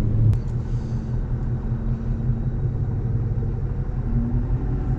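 Ford Mustang 5.0 V8 idling through a straight-through SLP resonator exhaust with the mufflers deleted: a steady, deep low rumble.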